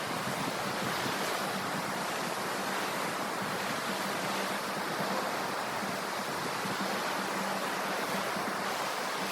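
Ocean surf: a steady, even rush of waves washing on the shore, with no single breaker standing out.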